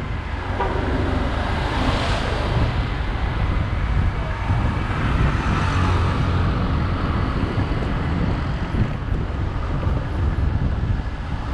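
Wind rushing over the microphone of a riding motorcycle, with the motorcycle's engine and tyres running on a bumpy street beneath it; steady throughout.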